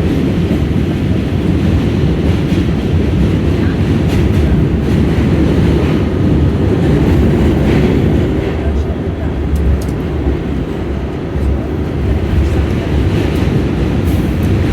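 Subway train running on the rails: a steady low rumble that eases off a little about halfway through.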